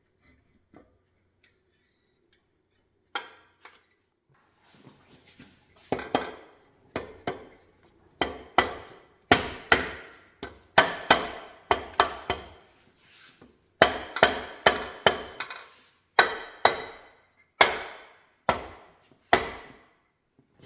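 Hammer tapping on engine parts being fitted during a Porsche 912 engine build: a couple of single knocks, then groups of sharp strikes about two a second, each ringing briefly.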